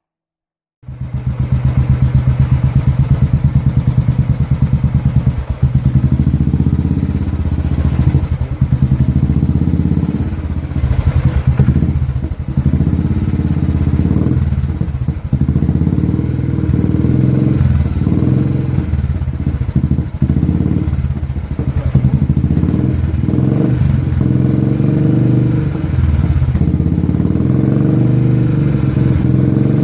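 Royal Enfield single-cylinder four-stroke engine running through an aftermarket stainless twin-pipe exhaust with glasswool-packed mufflers, giving a deep, even bass thump at idle with a few short throttle blips. The sound starts abruptly about a second in.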